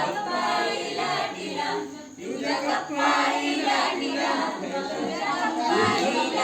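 A group of voices singing or chanting together, with a brief dip about two seconds in.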